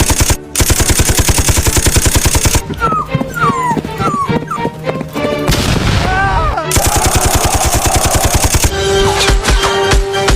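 Rapid machine-gun fire sound effects in two long bursts over a music track, with a dog's short high yelps and whimpers in between. Near the end the gunfire gives way to music with a held steady note.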